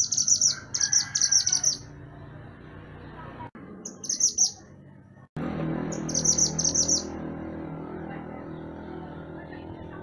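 Mantenan gunung songbird singing in short phrases of rapid, high chattering notes, four phrases with pauses between them, over low background noise that gets suddenly louder about five seconds in.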